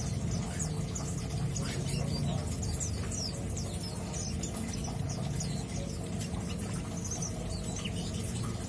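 Male mountain white-eye twittering in a rapid string of short, high chirps, over a steady low hum.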